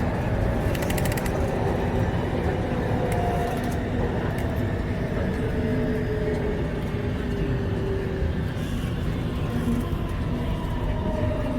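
Steady low rumble of a vehicle in motion, with a brief rapid clicking about a second in.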